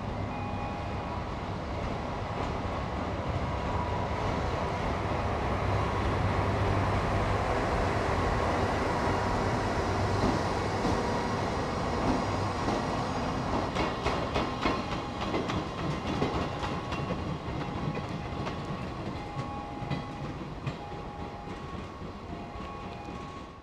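Freight train rolling past: an ED75 electric locomotive hauling heavy-load depressed-centre (Shiki) cars, a steady rolling rumble with thin high tones coming and going. About halfway through, a run of clicks and knocks as the wheels cross rail joints, easing off as the train moves away.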